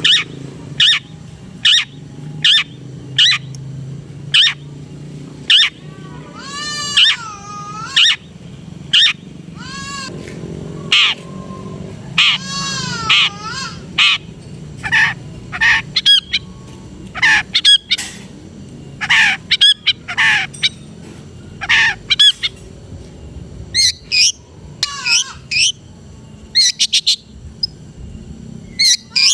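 Long-tailed shrike (cendet) singing a rich, varied song: a quick series of short, sharp notes, roughly one or two a second, mixed with sliding whistled phrases. A steady low hum runs underneath.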